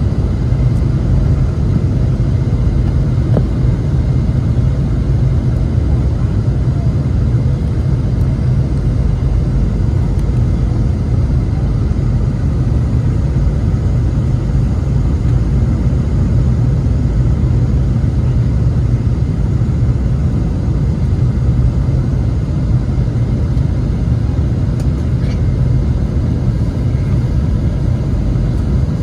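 Steady low rumble of an airliner during landing, heard from inside the passenger cabin.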